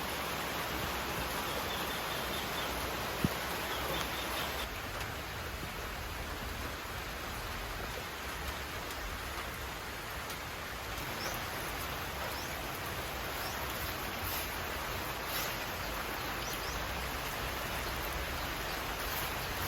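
Steady rain, an even hiss with no break, with one sharp click about three seconds in.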